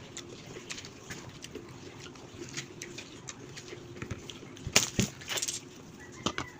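Close-up eating sounds of someone chewing sea grapes (kinilaw na lato): a run of small wet mouth clicks and smacks, with a burst of louder clicks a little before the end. A faint steady hum sits underneath.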